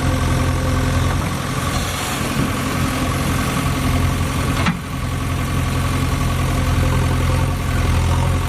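Heavy vehicle engine idling steadily, with a brief dip in level and a click a little past halfway.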